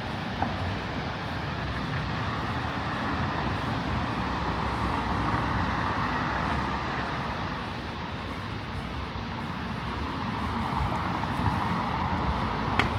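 City road traffic going by: a steady hum of cars that swells as vehicles pass around the middle and again near the end, with a sharp click just before the end.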